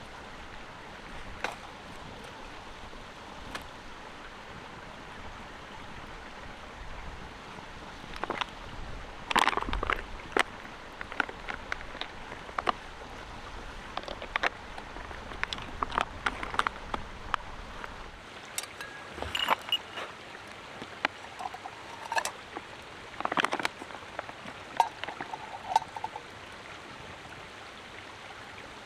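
Steady rushing background noise like a running stream, with scattered light knocks and clicks through the middle.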